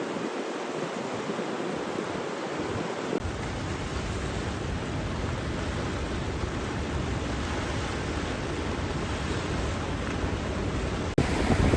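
Steady rushing of water, typical of a river in flood or surf, with low wind rumble on the microphone. The rumble fills in about three seconds in. A brief dropout near the end is followed by louder wind-buffeted noise.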